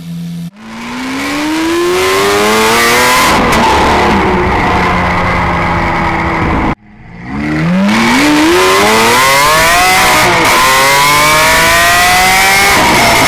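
Lamborghini Aventador LP700-4's V12 engine and exhaust accelerating hard at full throttle. There are two pulls, each a loud note rising steeply in pitch. They are split by an abrupt cut about halfway through, and the second pull has a short dip partway up.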